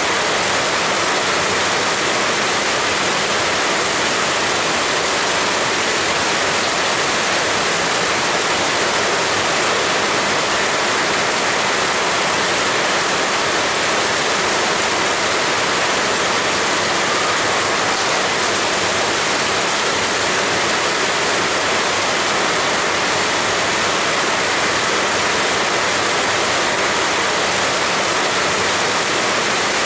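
Heavy rain pouring down steadily: an even, unbroken hiss of dense rainfall.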